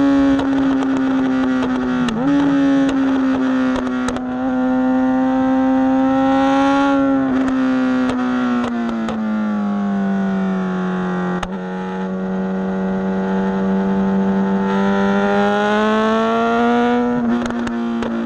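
Suzuki GSX-S750's inline-four engine running at high revs while riding. Its pitch sags slowly through the middle as the throttle eases, then climbs again near the end, with a few sharp clicks.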